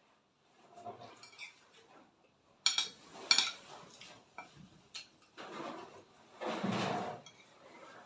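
Cutlery clinking against a plate while eating: two sharp clinks about half a second apart, a few softer knocks, and a longer noisy stretch near the end.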